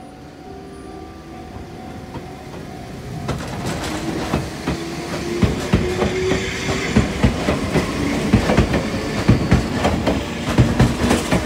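Enoden electric train pulling out and passing close by, growing louder, its wheels clacking in quick irregular clicks and knocks over the rail joints and points. A whine rises in pitch through the middle as it gathers speed.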